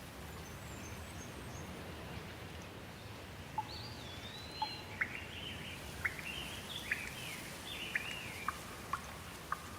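Steady rain falling, with a bird calling from about a third of the way in: a rapid run of short chirps and gliding whistled notes.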